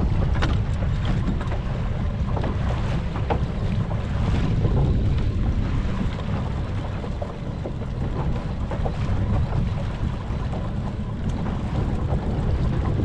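A small fishing boat's motor running at trolling speed, heard as a low, steady rumble mixed with wind buffeting the microphone. Scattered light clicks and taps sound over it.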